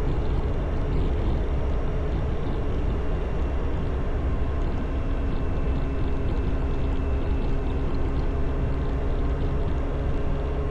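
Motorcycle engine and wind noise while riding at a steady cruising speed: an even engine drone with no revving, under a constant rush of wind.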